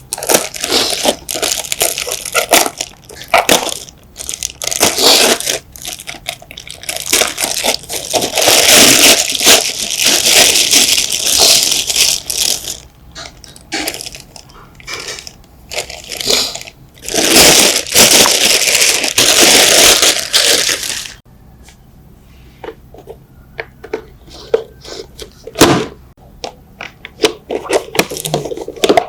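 Workshop handwork noises: scraping, crunching and clicking, with two long stretches of loud steady hiss and, late on, quieter scattered clicks and one sharp crack.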